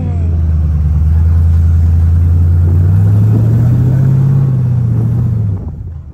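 Vehicle engine running hard under load. Its pitch climbs about three seconds in and sinks again, then it backs off sharply near the end.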